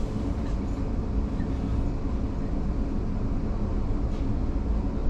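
Steady low rumble of a commuter train running along the line, heard from inside the carriage, with a few faint ticks.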